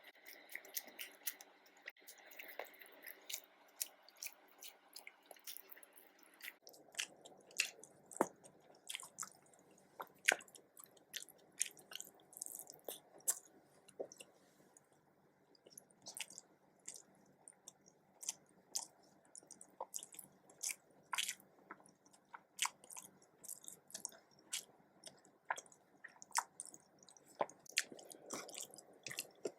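Close-up wet chewing and mouth clicks of someone eating nasi dagang, many small sharp clicks throughout. A steady hum under them cuts off suddenly about six seconds in.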